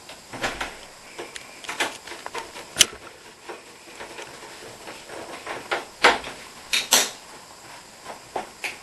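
Irregular clicks and knocks of metal and plastic parts being handled, from the dishwasher door hinge and its sheet-metal housing, with one sharp click about three seconds in and louder knocks around six and seven seconds.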